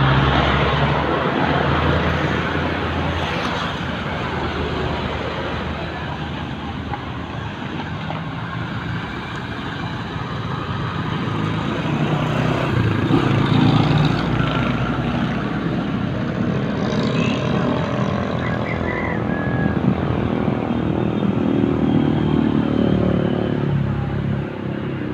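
A motorcycle engine running while riding along a road, under a steady rushing noise. The engine's pitch shifts up and down.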